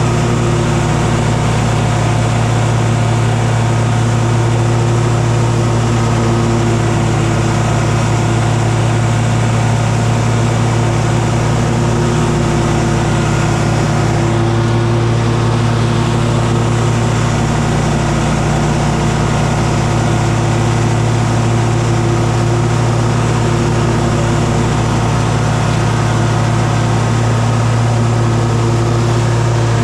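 An engine running steadily at high speed after spinning up, a loud unbroken drone with a strong low hum and no change in pitch.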